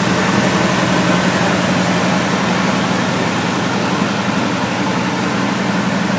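A steady mechanical hum at one constant low pitch, with an even haze of background noise.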